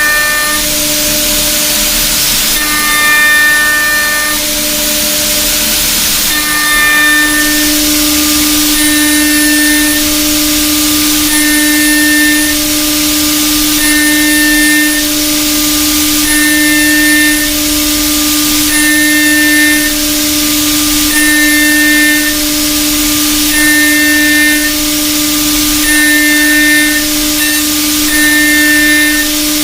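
Ceramic solid end mill milling a heat-resistant superalloy on a CNC machine, running with a steady tone and a high hiss. A higher squeal comes and goes about every two and a half seconds as the cutter makes repeated passes.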